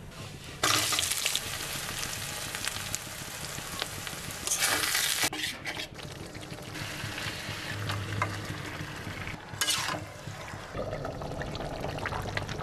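Hot oil and masala paste sizzling and frying in a metal wok, with a metal spatula stirring through it. The sizzle starts abruptly about half a second in and swells louder around five seconds and again near ten seconds in.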